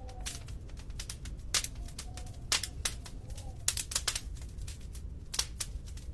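Wood fire in a fireplace crackling, with irregular sharp pops and snaps over a steady low rumble of the flames. A faint whistling tone rises and falls now and then.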